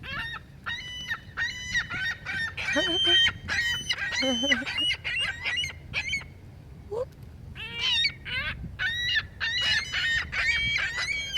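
A group of seagulls calling over one another in quick, repeated calls, with a lull about halfway through before the calling picks up again.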